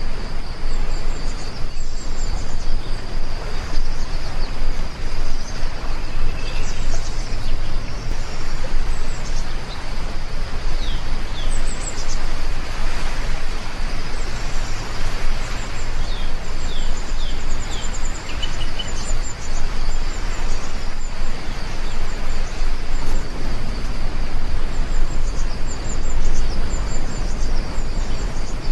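Steady heavy rainfall, with small birds chirping here and there over it.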